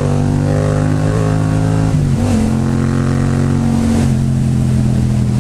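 Yamaha MT-07's 689 cc parallel-twin engine running under load through an Akrapovič aftermarket exhaust while being ridden. Its deep, steady note rises slightly, then breaks briefly about two seconds in and again near four seconds before settling.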